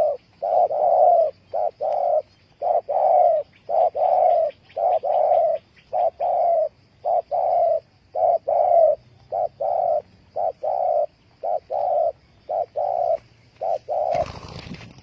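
Spotted dove cooing: a long run of short, low coos, about two a second, in uneven groups. Near the end the cooing stops and a brief noisy rustle follows.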